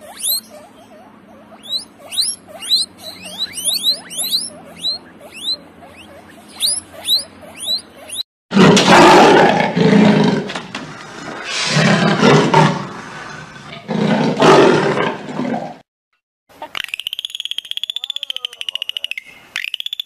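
Guinea pig squeaking in a quick run of short rising squeals. About eight seconds in it cuts to three loud, deep animal roars, the loudest sound. After a brief gap comes a wavering high whistle over a rapid pulsing train of clicks, of the kind dolphins make underwater.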